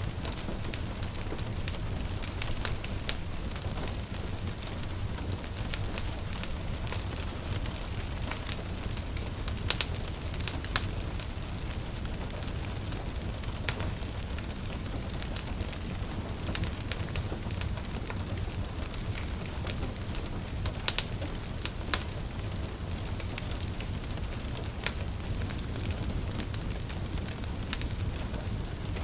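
Wood fire crackling, with scattered sharp pops, a couple of them louder, about ten seconds in and again a little past twenty, over a steady patter of gentle rain and a low rumble.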